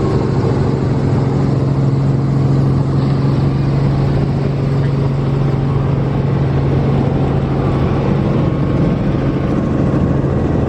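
Tour helicopter running, heard from inside the cabin: a loud, steady drone with a strong low hum.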